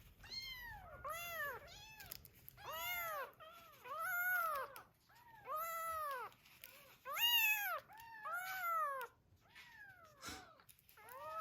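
Young kittens mewing: about a dozen short high-pitched mews, roughly one a second, each rising and then falling in pitch.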